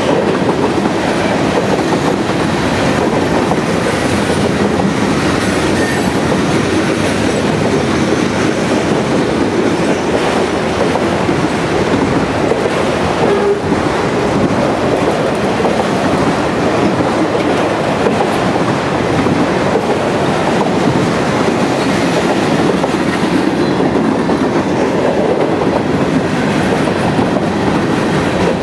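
Mixed freight cars of a Norfolk Southern train (tank cars, autoracks, covered hoppers) rolling past close by: a steady rumble of steel wheels on the rail with clickety-clack over the rail joints.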